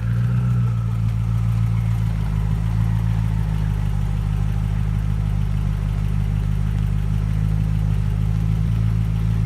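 A car engine running at a steady speed with a constant low drone.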